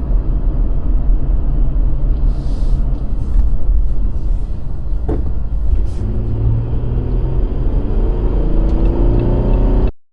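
Jeep Gladiator driving on a rough trail: a steady low engine and road rumble, with the engine note climbing in pitch over the last few seconds as it revs up.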